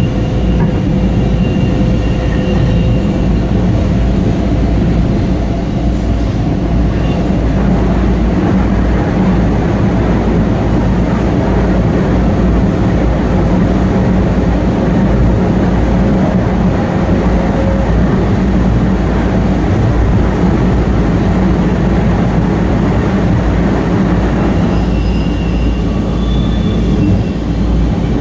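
Steady loud rumble and wheel-on-rail noise inside a moving Long Island Rail Road passenger car, with another train running alongside on the next track. A faint steady tone runs under it for most of the time, and brief faint high wheel squeals come in near the start and again near the end.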